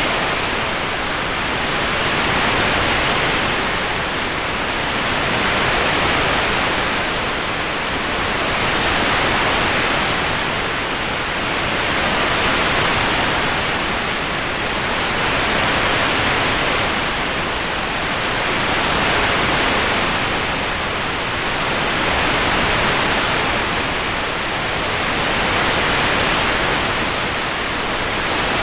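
Steady rain ambience: an even hiss that swells and eases gently about every three seconds.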